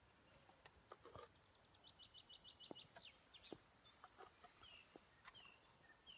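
Faint small-bird song: a quick run of about seven high chirps near the middle, then a few short whistled notes, with scattered soft clicks and rustles of handling.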